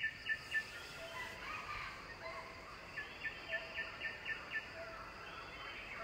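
A bird calling in runs of short, sharp notes, three to six at a time at about four a second, over a faint outdoor background.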